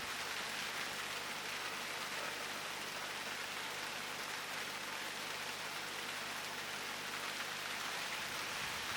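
Steady hiss of thunderstorm rain falling, even and unbroken, with no thunder clap.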